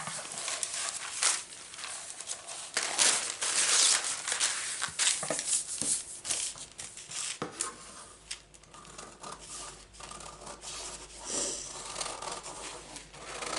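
Folded parchment paper rustling and crinkling as it is handled and cut along a traced curve with scissors, with a few sharp clicks among the irregular rustling strokes.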